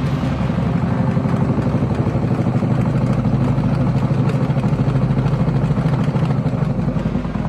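Beko washing machine running a high-speed spin, with a steady, fast rattling and knocking from the machine.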